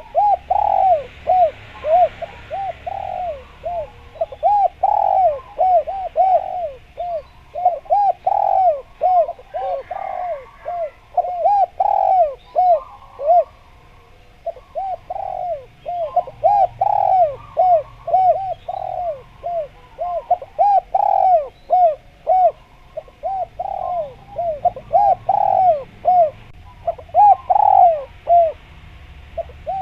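Spotted dove (derkuku) calling vigorously: long runs of quick coo notes, each rising and falling, about two a second, broken by brief pauses.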